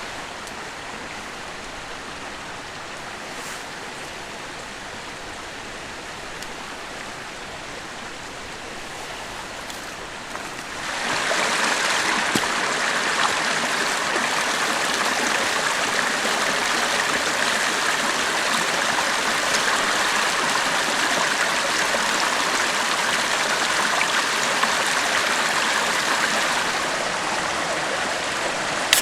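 Clear mountain stream flowing steadily, a continuous rushing of water that turns markedly louder about eleven seconds in.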